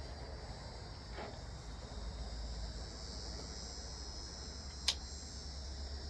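Crickets or similar insects chirring steadily and high-pitched over a low wind rumble. A single short, sharp crack sounds near the end.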